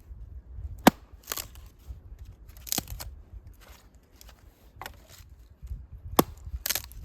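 Chopping: two sharp, loud strikes about five seconds apart, with softer knocks and scraping between them.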